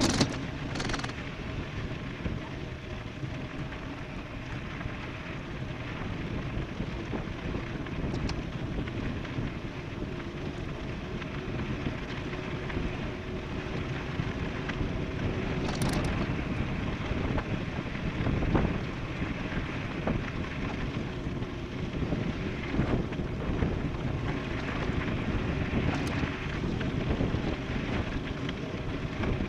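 Wind rushing over the microphone with steady road rumble from an e-bike riding downhill at speed, with a few sharp clicks.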